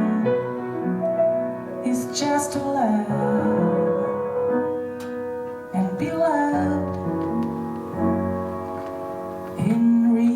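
Female voice singing long held notes, accompanied by piano and harp.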